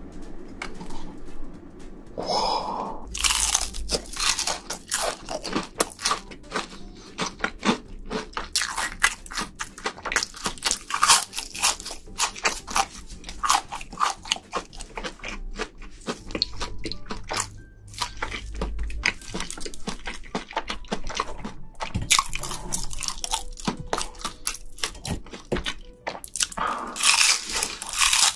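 Crunchy food being bitten and chewed: dense, irregular crunches that begin a couple of seconds in and go on throughout.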